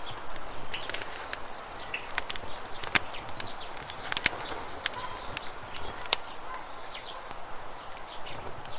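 Campfire crackling with irregular sharp pops, the loudest about three seconds in, over the steady rush of a flowing river, with birds chirping faintly now and then.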